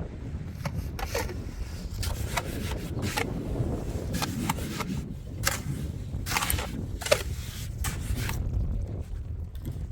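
Irregular scraping and knocking strokes, several a second in places, over a low steady rumble.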